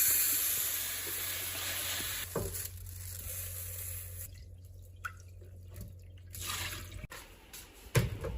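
Water running into a sink or basin, the flow easing off about two seconds in, followed by quieter dripping and brief splashes.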